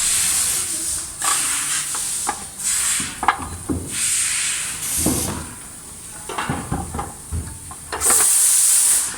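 Handling noise from parts being worked by hand: repeated bursts of hissy rustling, each about half a second to a second long, with scattered clicks and knocks between them. The longest and loudest rustle comes about eight seconds in.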